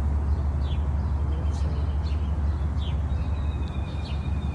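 Wild birds chirping, about six short falling chirps with a couple of thin held whistles, over a steady low rumble that is the loudest sound.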